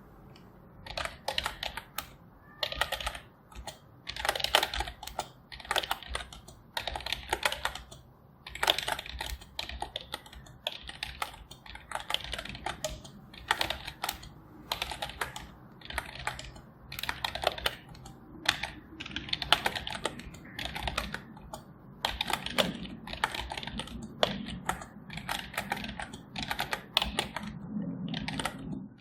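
Typing on a computer keyboard: rapid runs of key clicks with brief pauses between them.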